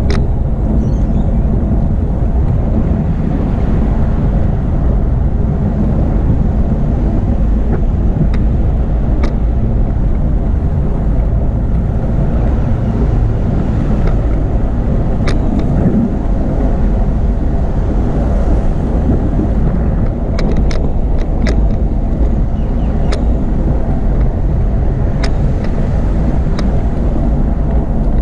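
Steady low wind buffeting on the microphone and road rumble from a bicycle riding at speed. A handful of brief sharp ticks or rattles come through, several of them close together about twenty seconds in.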